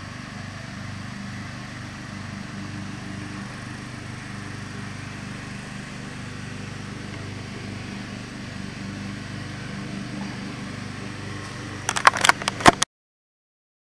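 An engine running steadily with a low, slightly pulsing hum. Near the end, a quick cluster of knocks and clicks, then the sound cuts off.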